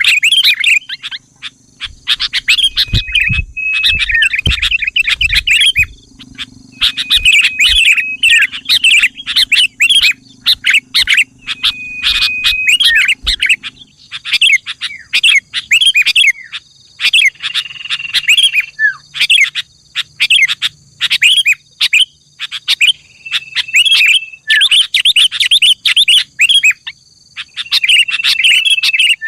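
Sooty-headed bulbul (kutilang) song: bursts of rapid, sharp chirping notes every second or two, several with a short held whistle in the middle. There are a few low thumps a few seconds in.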